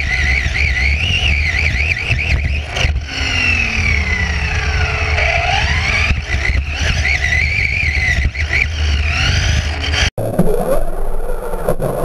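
Electric RC buggy motor whining, its pitch wavering and swooping as the throttle is worked. About ten seconds in the sound cuts out briefly and changes.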